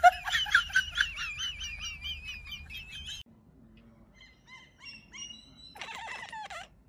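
A quick run of high, warbling bird chirps for about three seconds. After a short break come sparser short chirps, then a brief burst of rapid chattering near the end from a cat at a window watching outside.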